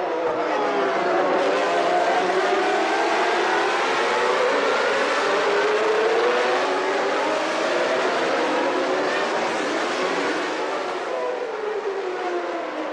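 Several 1991 Formula One cars' naturally aspirated 3.5-litre engines running at high revs together, their overlapping pitches repeatedly rising and falling as the cars pass and change gear.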